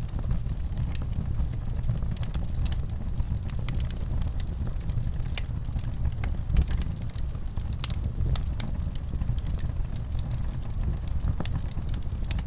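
Fire crackling: frequent, irregular pops and snaps over a steady low rumble of the flames.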